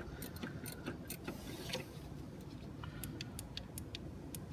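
Wrench working the AC compressor mounting bolt, with irregular light metallic clicks.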